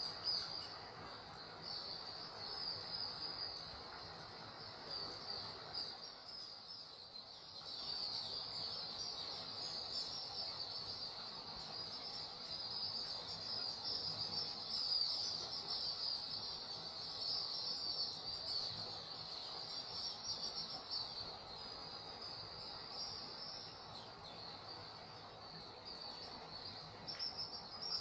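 A flock of swiftlets twittering: a continuous chorus of many high, rapid chirps that swells and eases slightly.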